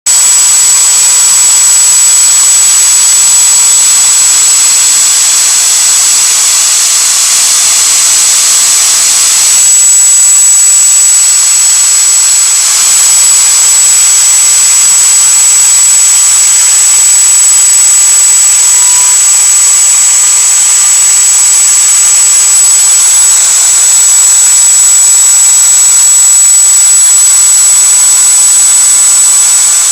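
Fiolent 1.1 kW router, serving as the spindle of a CNC milling machine, running at speed with a loud, steady high-pitched whine while milling wood along a centerline carving path.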